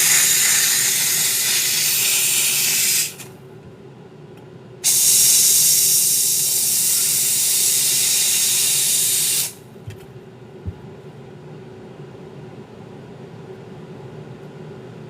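Handheld steamer hissing in two long bursts: the first stops about three seconds in, the second runs from about five to nine and a half seconds in. A faint steady hum sits underneath.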